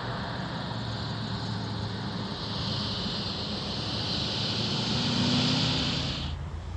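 A motor vehicle running steadily, with a hiss over it that grows louder partway through; both cut off suddenly near the end.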